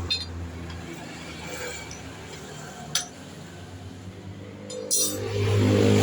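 Sharp metal clinks, like tools being handled, three times, then an engine coming up loud near the end with a steady low hum.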